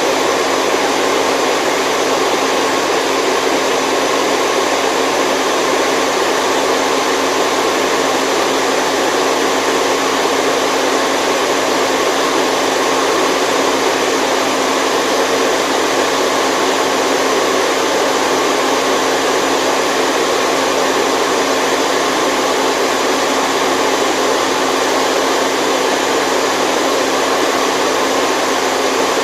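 Steady, unchanging white noise of the kind played to help a baby sleep: an even rushing sound, fullest in the middle range, with no breaks or changes.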